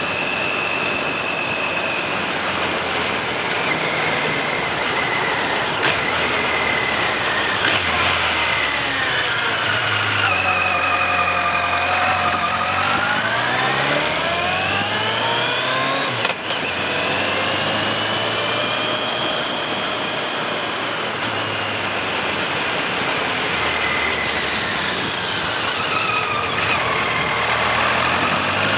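Suzuki GSX1400's inline-four engine running under way, with heavy wind noise over it. The engine note falls and climbs again about a third of the way in, and again near the end, with a short dip in the sound about halfway through.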